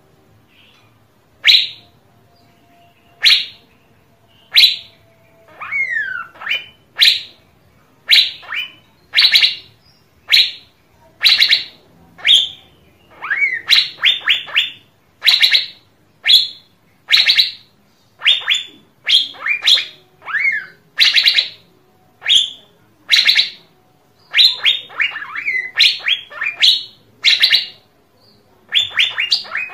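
Asian fairy-bluebird calling: loud, short, sharp notes about one or two a second, often in quick clusters of two or three. A few falling whistled notes are mixed in, and the calling begins about a second and a half in.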